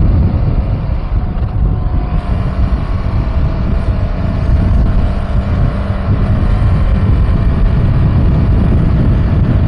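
Wind rushing over a chest-mounted camera's microphone on a moving motorcycle, with the KTM 390 Adventure's single-cylinder engine running underneath. The rush is steady and loud throughout, with a faint engine note rising slightly a couple of seconds in.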